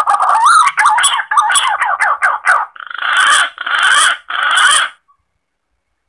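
Green pigeon (punai) call played as a hunting lure: a run of wavering whistled notes, then three short raspy notes. The call stops abruptly about five seconds in.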